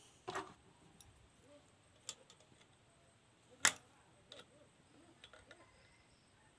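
A few short, sharp clicks or knocks spaced irregularly, the loudest about three and a half seconds in, over a faint background.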